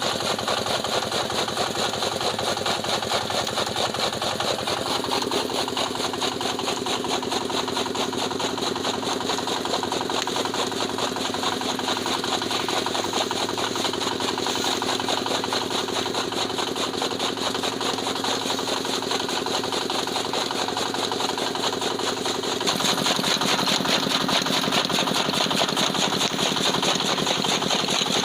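Petter diesel engine running steadily, driving a chaff cutter. About three-quarters of the way through, the engine gets somewhat louder and heavier.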